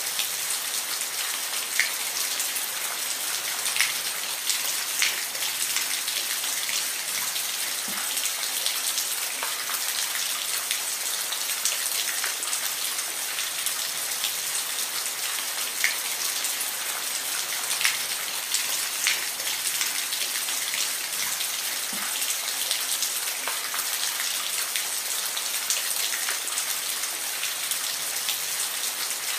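Steady rainfall, an even hiss with scattered louder single drops tapping a surface.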